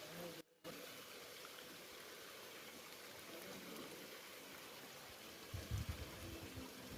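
Steady rush of a stream flowing over stones, cut off briefly about half a second in. Low rumbling thumps come in near the end.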